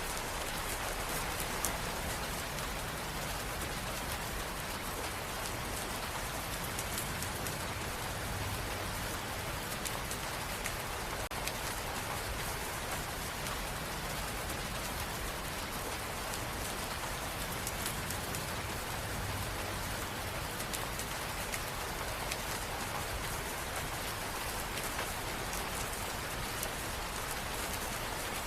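Steady rain falling, a dense even patter of drops on hard surfaces.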